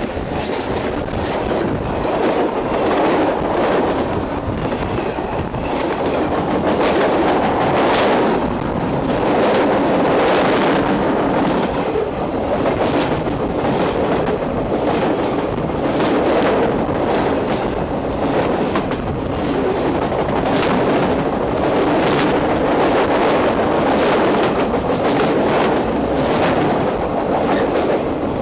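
Freight train cars rolling directly overhead, heard from the track bed between the rails: a steady rumble of steel wheels on rail with a constant run of clicks and knocks as the wheels pass over the rail.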